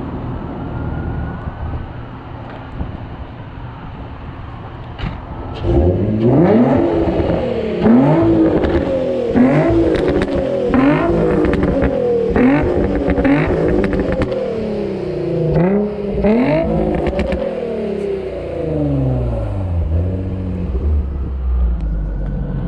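Infiniti VQ V6 with a Motordyne Shockwave exhaust and Motordyne ART pipes idling, then blipped through a quick series of about eight to ten free revs, each rising and falling back, with crackles on the overrun. It settles back to idle near the end.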